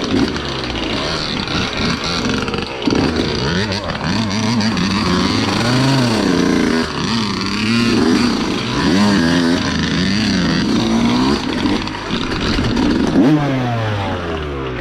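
Dirt bike engine revving, its pitch rising and falling over and over.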